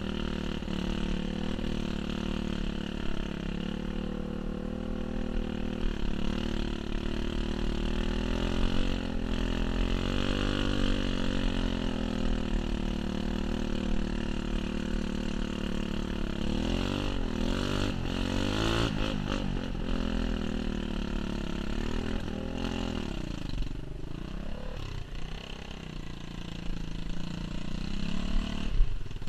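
Pit bike engine running under way, its revs rising and falling repeatedly as the bike is ridden, over a steady low rumble.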